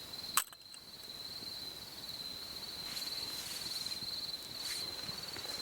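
Crickets chirping in a steady high trill on an autumn night, with one sharp click about half a second in.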